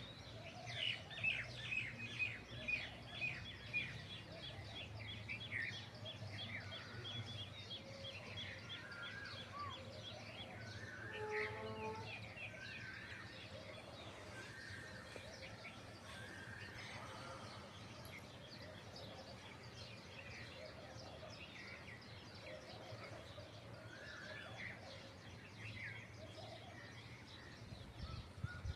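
Several birds chirping and calling in a morning village chorus, with a quick run of repeated chirps in the first few seconds, over a faint steady low hum.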